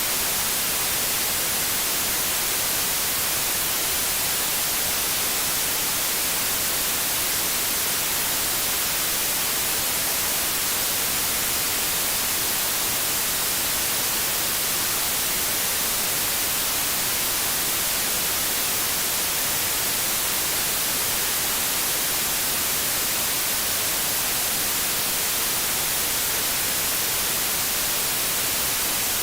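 TV static hiss (white noise, as from an untuned analogue television), steady and unchanging, brightest in the treble.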